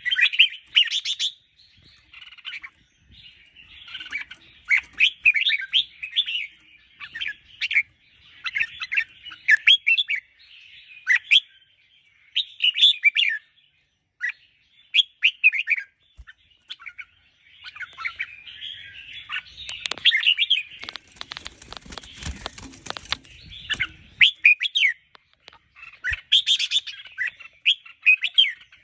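Red-whiskered bulbul singing: short, quick warbling phrases of rising and falling notes, repeated with brief pauses. A rustling noise sounds from about 20 to 24 seconds in.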